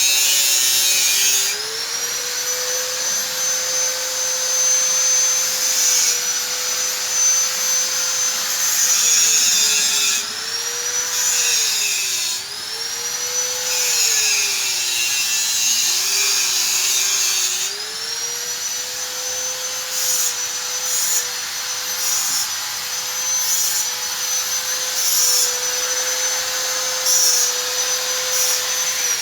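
A high-speed handheld power tool working on car bodywork, running continuously with a high whine. Its pitch dips and recovers several times as it is pressed into the work, and a rasping abrasive noise comes and goes.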